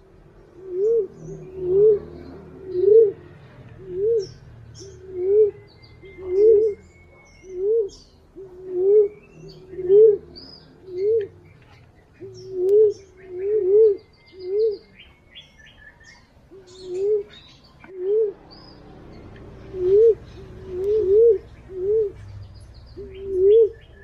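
A wild pigeon call of the punai/walik kind played as a lure. It is a run of short, low whistled coo notes that rise and fall, about one a second, with some notes coming in quick pairs or threes. Faint high chirps of other birds sound behind it.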